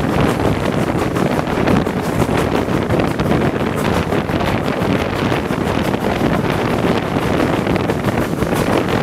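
Steam-hauled passenger train running, heard from an open coach window: steady rumble of the carriages on the track under heavy wind buffeting on the microphone.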